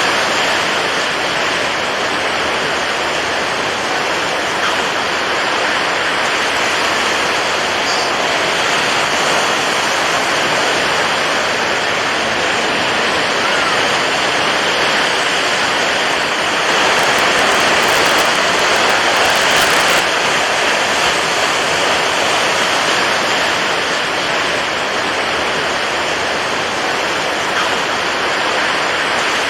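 Steady rushing water noise, even and unbroken with no distinct wave surges, swelling slightly about two-thirds of the way through.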